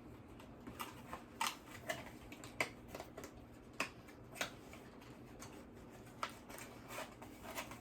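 Scattered light clicks and taps of small items and packaging being handled, about a dozen irregular ticks over several seconds.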